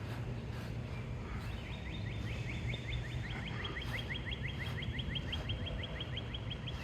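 A bird singing a fast trill of downward-slurred notes, about six a second, starting about a second and a half in and running on, over a steady low rumble of wind noise.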